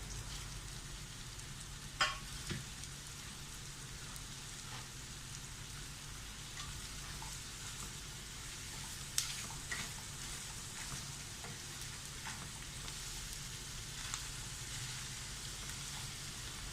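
Onions, tomato, chillies and whole spices frying in coconut oil in a pan: a steady sizzle, with a few sharp clicks as they are stirred.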